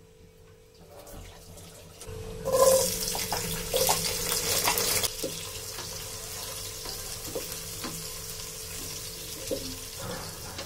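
Sliced garlic sizzling in hot oil in a nonstick pot: the sizzle starts suddenly about two and a half seconds in, loudest for the first couple of seconds, then settles to a steady sizzle. A spatula stirring gives scattered light taps.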